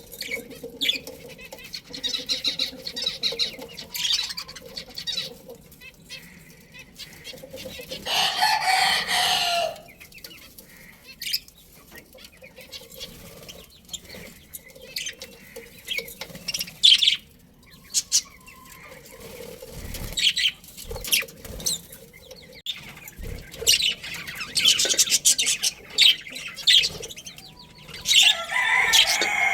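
A budgerigar colony chirping and chattering in short high bursts, with scattered clicks. About eight seconds in there is a louder, longer stretch of sound.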